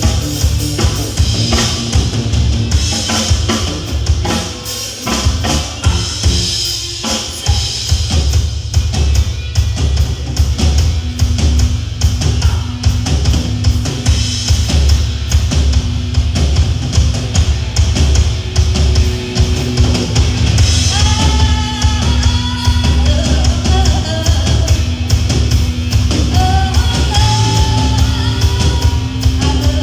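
Live band playing an instrumental passage: drum kit with a heavy bass drum and bass line keeping a steady beat. A lead melody with bending notes comes in about two-thirds of the way through.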